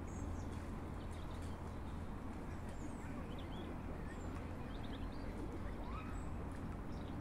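Outdoor ambience of scattered short, high bird chirps over a steady low rumble.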